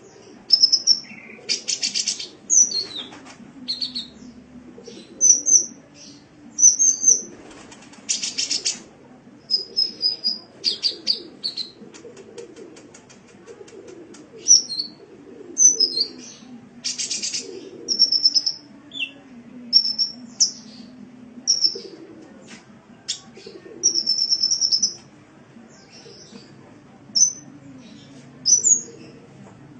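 Sunbird ('kolibri') song: quick bursts of high, thin chirps, sharp whistled notes and short fast buzzy trills, broken by brief pauses, over a faint low wavering background sound.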